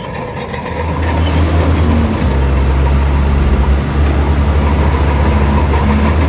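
Heavy diesel engine of earthmoving equipment running, growing louder about a second in and then holding steady.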